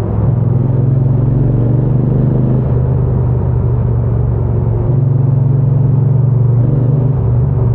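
Triumph Bonneville T120's parallel-twin engine and exhaust running steadily while riding, the note easing off a little about a third of the way in and picking back up a couple of seconds later.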